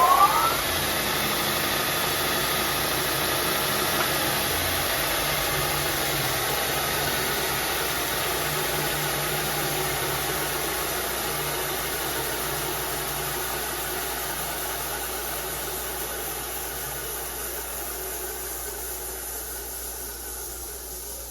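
Oliver 182-DB disc and belt combination sander, with its 2 horsepower motor, 15-inch disc and 6 x 60 inch belt, finishing its spin-up with a rising whine in the first half second. It then runs steadily with no load, slowly growing quieter.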